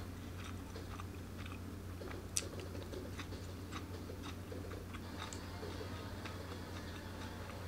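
A man chewing food with the mouth close to the microphone: many small wet clicks, and one sharper click about two and a half seconds in. A steady low hum runs underneath.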